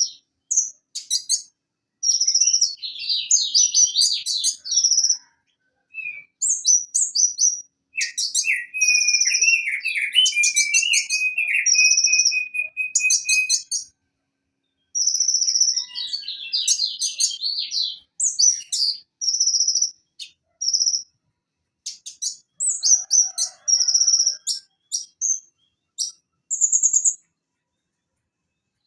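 Purple-throated sunbird singing: bursts of sharp, high chips and rapid trills separated by short pauses, with a lower, longer trill about a third of the way in.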